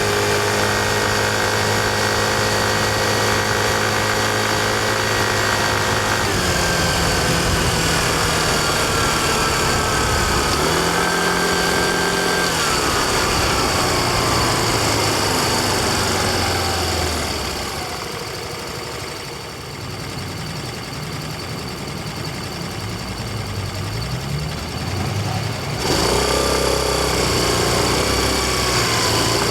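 Yamaha Fazzio's 125 cc single-cylinder scooter engine running under way. It holds a steady note for about six seconds, then falls in pitch as the scooter slows, goes quieter for several seconds, and picks up again suddenly with a rising note near the end.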